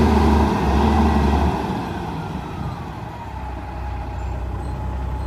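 Heavy diesel dump-truck engine running. It drops sharply in loudness about a second and a half in, as if coming off the throttle, and a whine falls in pitch over the next two seconds as the engine winds down toward idle.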